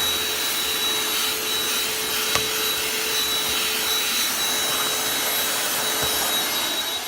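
Cordless vacuum cleaner running steadily with a high motor whine. Its crevice tool rubs and scrapes over the car's back-seat upholstery and carpet, with a couple of small clicks.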